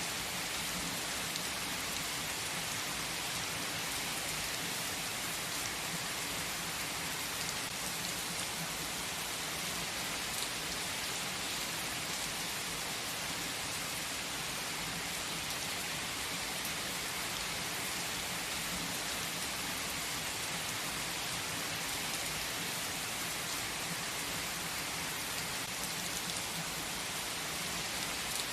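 Rain falling steadily: an even hiss of many drops, with no change in strength.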